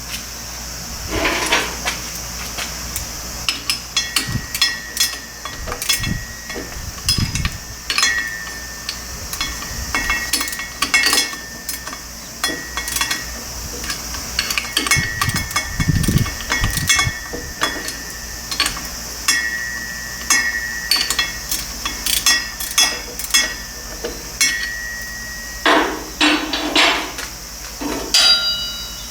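Hand tools knocking and clinking on metal: a run of sharp, irregular knocks throughout, with a faint steady high tone running through most of the middle.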